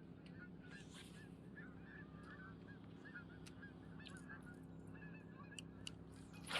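Faint honking of a flock of geese, many short calls overlapping, over a steady low hum.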